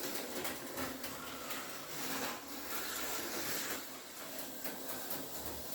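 HO-scale slot car running laps on a plastic track: a small electric motor whirring with pickup shoes rattling on the rails, the level swelling and fading as the car goes round.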